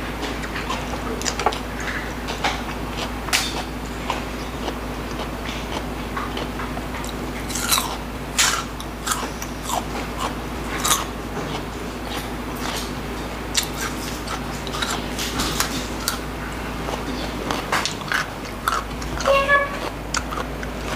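Close-miked mukbang eating: crisp, irregular crunches and wet chewing as raw vegetable sticks dipped in sauce are bitten and chewed.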